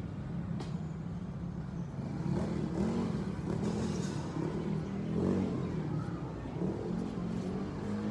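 A road vehicle's engine running, its pitch rising and falling.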